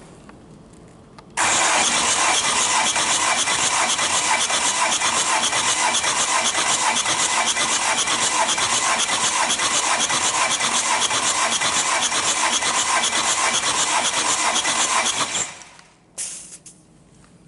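Starter motor cranking a Hyundai D4CB 2.5-litre four-cylinder diesel for a compression test, a steady fast-pulsing whir. It starts suddenly and runs for about fourteen seconds, then spins down near the end without the engine firing.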